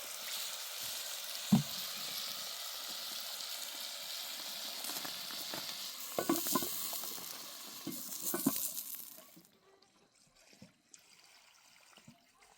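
Food sizzling as it fries in a pan, with a few knocks of a utensil stirring it. The sizzle cuts off suddenly about three-quarters of the way through.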